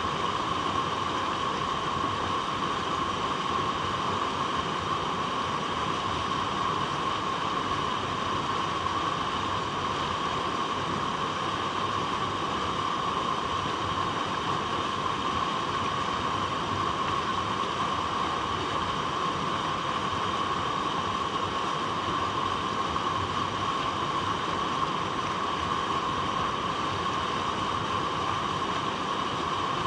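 Water flowing over rocks, a steady, unbroken rushing.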